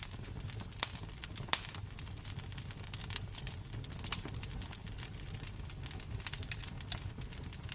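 Wood fire crackling in a fireplace: irregular sharp pops and snaps, two louder ones in the first two seconds, over a steady low rumble.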